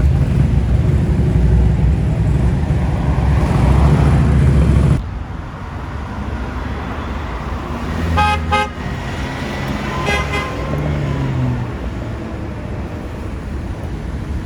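Loud car engine rumble with street traffic, cut off abruptly about five seconds in. Then quieter traffic noise with two short car-horn toots a couple of seconds apart.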